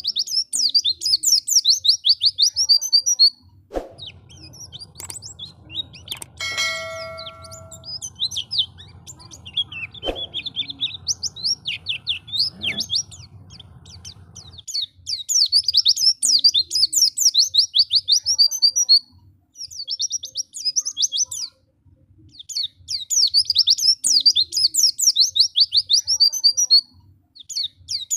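Pleci (white-eye) singing rapid, high twittering phrases in bursts a few seconds long, with short pauses between them. In a quieter stretch in between come scattered shorter calls, a couple of sharp clicks and a brief ringing tone.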